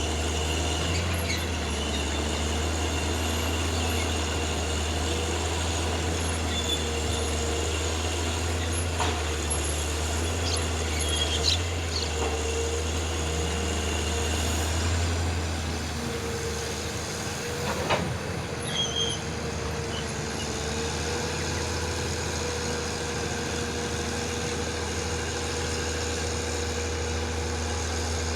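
Heavy diesel engine idling steadily, its low hum easing slightly a little past halfway, with a few sharp metallic knocks.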